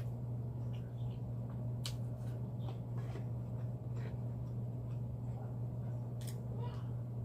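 Soft clicks and squishy mouth noises of someone chewing food, a few sharp ticks among them, over a steady low hum.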